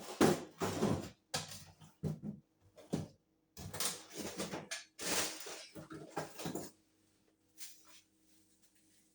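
Fridge drawers and shelves being handled: a run of irregular knocks, clatters and sliding scrapes that stops about seven seconds in, leaving a faint steady hum.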